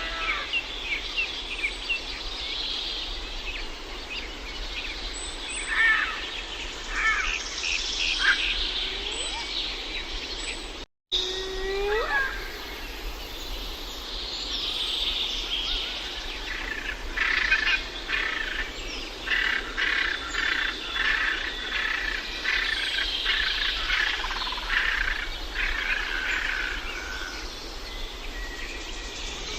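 Several birds chirping and calling over a steady outdoor background, with short chirps early on and quick runs of repeated notes later. The sound cuts out to silence for a moment about eleven seconds in.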